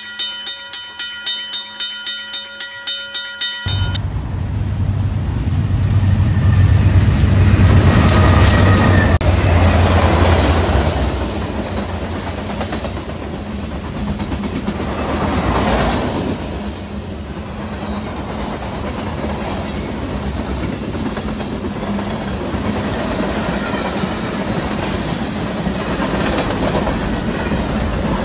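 A short rhythmic tune, then a manifest freight train passing close by, starting suddenly about four seconds in: a heavy low rumble that is loudest early on, settling into a steady rumble with the clickety-clack of freight car wheels over the rails.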